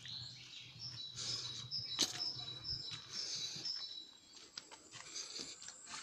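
Birds chirping in short high notes over a thin steady high tone. Sharp clicks and rustling of handling noise, the loudest click about two seconds in, with a low rumble in the first half.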